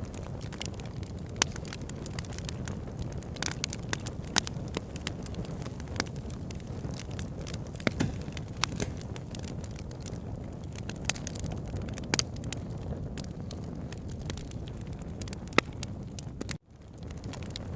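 Wood fire in a fireplace crackling, with irregular sharp pops and snaps over a steady low rumble of the flames. About three-quarters of the way in, the sound cuts out for a moment and then fades back in.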